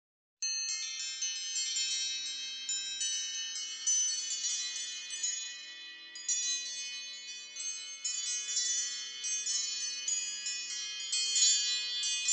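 iPhone ringtone of wind-chime-like tinkling: many high, overlapping bell notes with soft low tones beneath, starting about half a second in.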